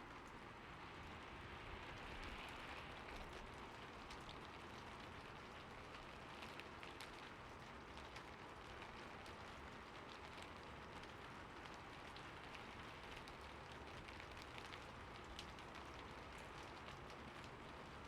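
Soft rain falling steadily: a faint, even hiss with many small, sharp drop ticks scattered through it.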